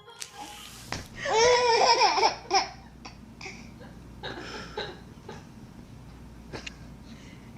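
High-pitched laughing, loudest in one long wavering burst about a second in, then softer bursts of laughter.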